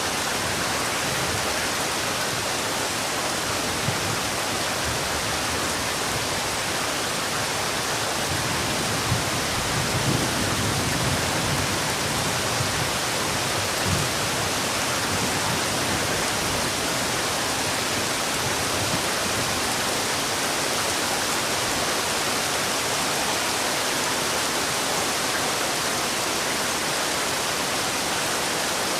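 Heavy rain falling steadily as a dense, even hiss, with a few soft low rumbles and pops about nine to fourteen seconds in.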